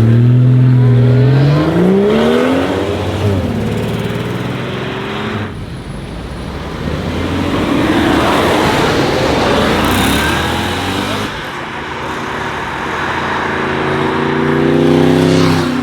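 Modified performance cars accelerating away. In the first few seconds one engine revs up, climbing in pitch with a brief hold partway, as at a gear change. A louder rushing pass follows in the middle, and another engine revs up near the end.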